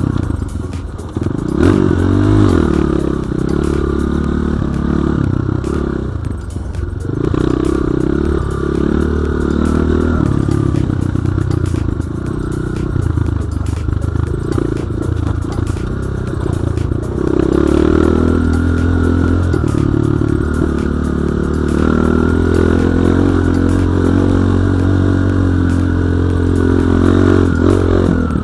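Enduro dirt bike engine running under load while riding off-road, the revs rising and falling with the throttle and easing off briefly about a quarter of the way in, with rattling and clattering from the bike over rough ground.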